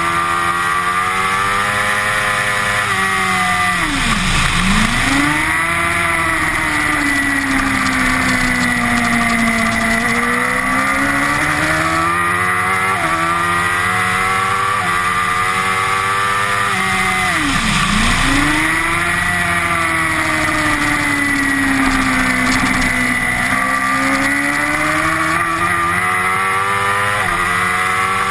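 Honda CBR1000RR inline-four race engine heard onboard at racing speed, its pitch climbing in steps through quick upshifts. Twice, about four seconds in and again near eighteen seconds, the revs fall sharply under braking and downshifts, then pull back up, over steady wind rush.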